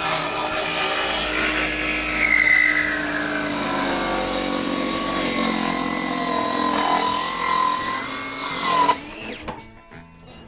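Power tool running under load on boards, its motor pitch wavering, then stopping suddenly about nine seconds in.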